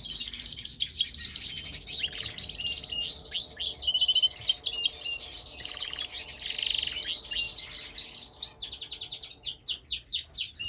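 Domestic canary singing a long, continuous song of fast trills and rapidly repeated notes. Near the end it breaks off briefly, then goes into a run of quick sweeping notes.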